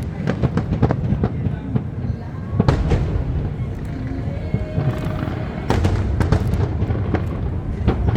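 Aerial fireworks bursting in quick succession: many sharp bangs, several a second, over a continuous low rumble.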